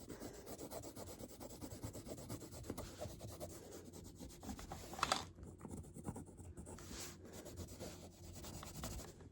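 Orange colouring pencil shading on paper: rapid back-and-forth scratching strokes, dense for about five seconds, then fewer and fainter.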